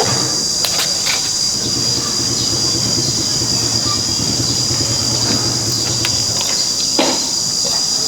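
Insects buzzing steadily in a high, unbroken drone, over a low mechanical rumble that fades out about six seconds in, with a few sharp metallic clicks.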